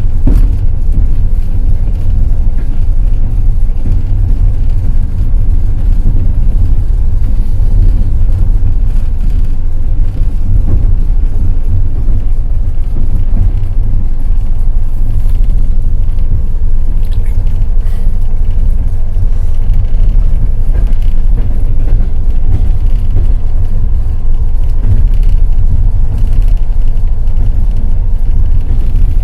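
Passenger train running along the line: the carriage gives a loud, steady, deep rumble, with the wheels clattering on the rails.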